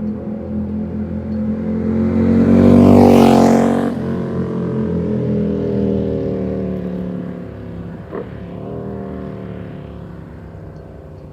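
Ducati Supersport S's 937 cc L-twin, through a baffled Competition Werkes exhaust, passing by: the exhaust note builds to its loudest about three seconds in, then drops in pitch and fades as the bike moves away. A single short snap comes from the exhaust about eight seconds in.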